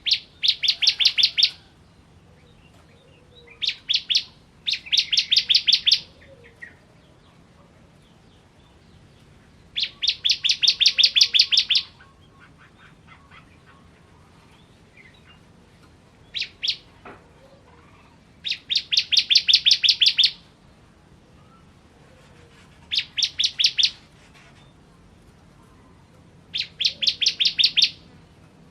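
Ciblek kristal, a prinia, singing in short bursts: fast runs of sharp, evenly repeated chirping notes, each burst lasting one to two seconds, with pauses of a few seconds between them.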